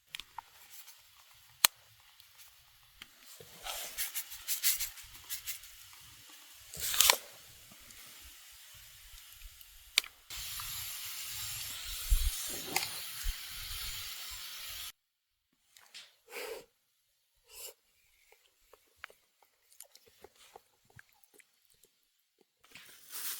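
A person chewing and biting into crunchy food close to the microphone, with sharp clicks scattered through. A steady hiss runs for about five seconds in the middle and stops suddenly.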